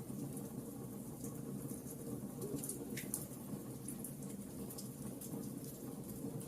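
Wood fire crackling steadily, with frequent small sharp pops and snaps over a low rumble of burning.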